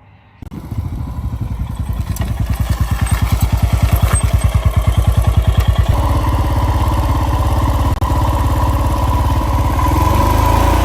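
Royal Enfield Himalayan's single-cylinder engine running with a fast, even beat after being restarted from a breakdown. It comes in suddenly about half a second in, grows louder over the next few seconds and turns steadier about six seconds in.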